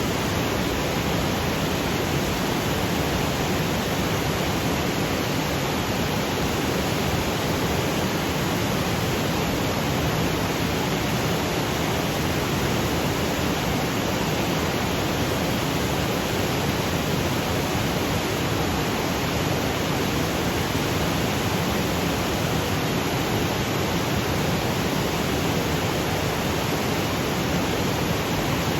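Waterfall cascading over granite boulders: a steady, even rush of falling water with no breaks or changes.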